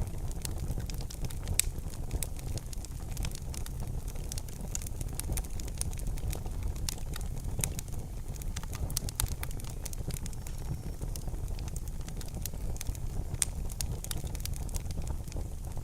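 Wood fire in a fireplace crackling: many small, sharp pops and snaps over a low, steady rumble of the flames.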